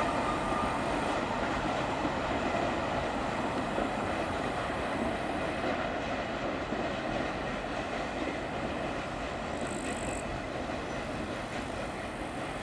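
Wagons of a freight train loaded with steel rolling away on the rails: a steady rumble of wheels on track that fades slowly as the train's tail recedes.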